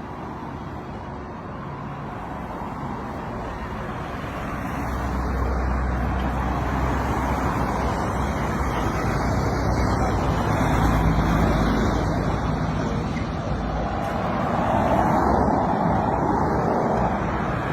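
Road traffic: motor vehicles passing on a road, a steady rumble that grows louder a few seconds in and swells several times as vehicles go by.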